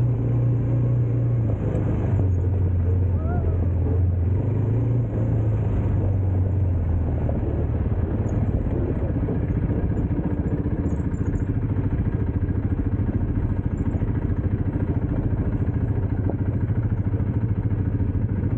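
Dirt bike engine running while riding. Its pitch shifts up and down a few times in the first six seconds, then holds a steady, even note.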